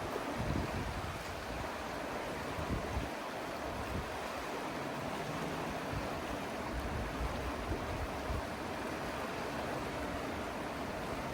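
A river's steady rushing flow, with low buffets of wind on the microphone now and then.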